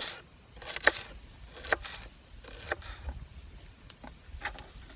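Knife cutting an onion on a board, with a sharp tap about once a second.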